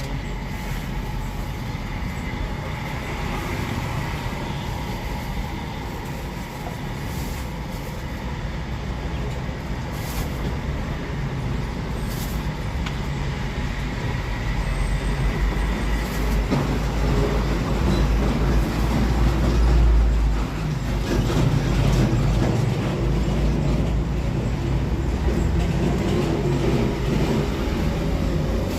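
Steady road traffic rumble, swelling as a heavy vehicle goes by about two-thirds of the way through.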